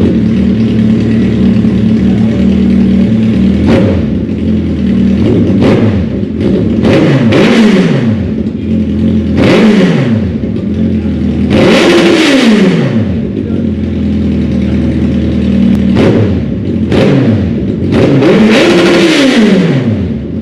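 Suzuki Hayabusa inline-four engine running with both stock exhaust mufflers removed, so it is open-piped and loud. It idles steadily and is revved about eight times; the two longest, highest revs come about halfway through and near the end.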